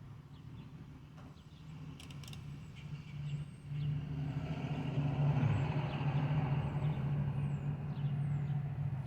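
A motor vehicle's engine running close by with a steady low hum that gets louder about four seconds in and stays loud, like a truck or bus drawing near. A few faint, short high chirps come near the end.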